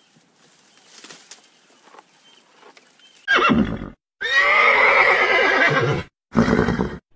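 Horse whinnying, after about three seconds of faint background. A short burst comes first, then one long neigh of about two seconds, then a shorter burst near the end.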